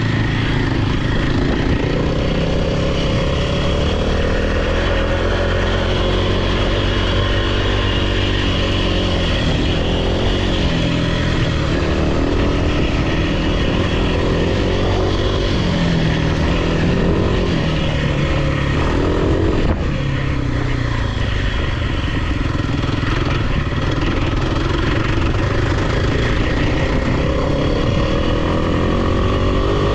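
Off-road vehicle engine being ridden hard, its pitch rising and falling continuously as the throttle is worked up and down.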